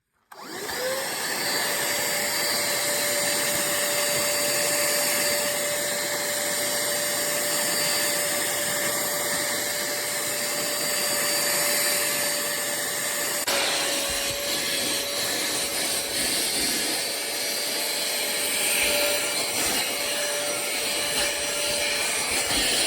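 Cordless handheld vacuum cleaner switched on, its motor spinning up in a brief rising whine and then running steadily with a high whine and a rush of air. The sound shifts abruptly about halfway through, then carries on steadily.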